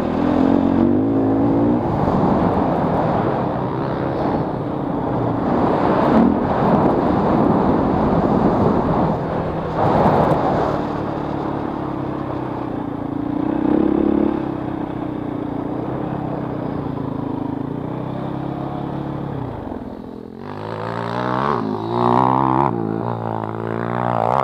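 KTM 450 EXC single-cylinder four-stroke motocross engine running under hard throttle, its note swelling several times. Near the end it eases off, then revs rise and fall repeatedly in quick succession.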